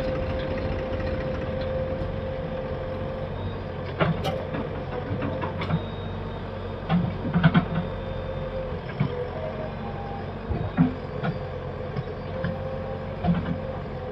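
Diesel engine of a JCB 3DX backhoe loader running steadily with a constant whine, while several sharp knocks and clatters come through, a cluster of them about halfway through.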